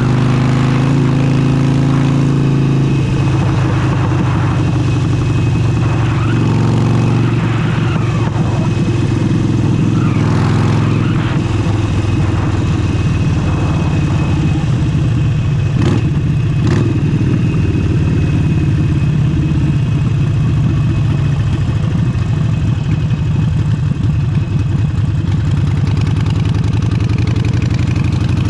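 Harley-Davidson Forty-Eight's air-cooled 1200 cc V-twin running through a Vance & Hines exhaust while riding, its note shifting about three seconds in. Two short clicks come just after the middle.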